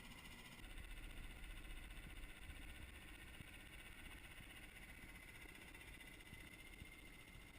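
Near silence, with a faint low rumble.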